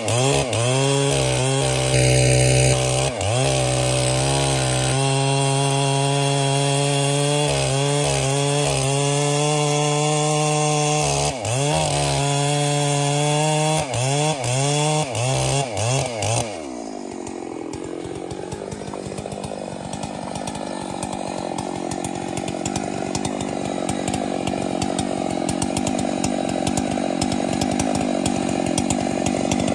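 Chainsaw engine running, its pitch dipping and climbing again and again for about sixteen seconds. Then the sound drops and changes to a steadier note that grows louder toward the end.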